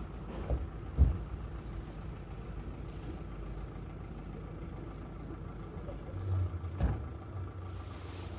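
Steady low rumble of outdoor background noise, with a sharp thump about a second in and another near seven seconds.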